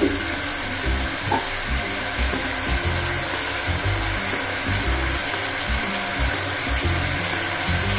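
Spice paste sizzling and bubbling in hot oil in an aluminium kadai: a steady hiss as the masala is fried down. Background music underneath.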